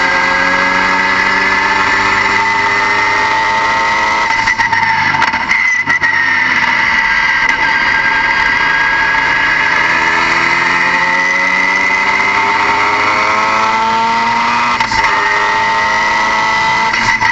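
Turbocharged car engine pulling hard, its pitch climbing, dropping briefly about five seconds in and again near the end, then climbing again, with a steady high whine running over it.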